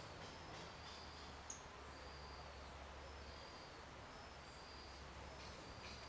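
Faint outdoor ambience with small birds in the distance giving thin, high, repeated short notes, and one sharper chirp about a second and a half in, over a steady low hum.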